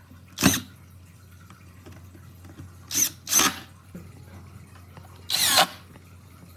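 Power drill run in four short bursts, the last one the longest at about half a second.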